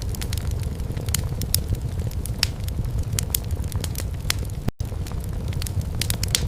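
Wood fire in a fireplace crackling, with many sharp pops and snaps over a steady low rumble of the flames. The sound drops out for an instant about three-quarters of the way in.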